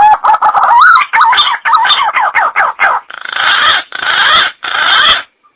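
Green pigeon (punai) call: a quick run of whistled notes wavering up and down in pitch, followed by three longer, hoarse notes near the end.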